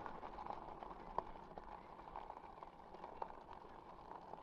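Fat e-bike tyres rolling over a rough path, a faint crackle with small scattered pops and clicks, the sharpest one about a second in.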